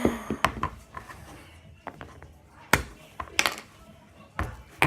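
Scattered sharp clicks and taps, about half a dozen, from a slime toy being handled and poked; the slime is hard.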